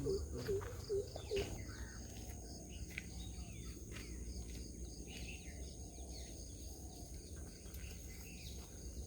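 Wetland ambience: birds chirping and calling over a steady high-pitched insect drone, with a quick run of low repeated calls that stops about a second and a half in.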